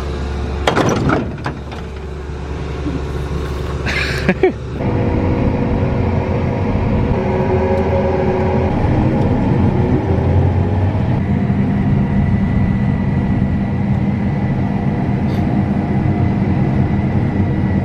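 Combine harvester running steadily with a constant engine drone; in the first few seconds a few sharp knocks are heard over a quieter engine rumble.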